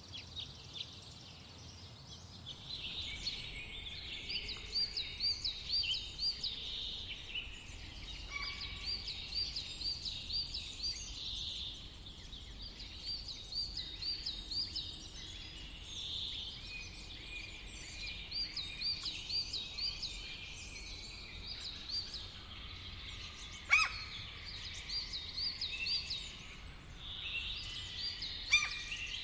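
Several songbirds singing in a summer forest, one repeating short runs of quick looping high notes, over a steady low rumble. A sharp click about 24 seconds in.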